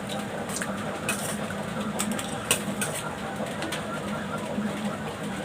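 Noodles being eaten close to the microphone: scattered sharp clicks and mouth noises from chewing, slurping and utensils, over a steady low hum.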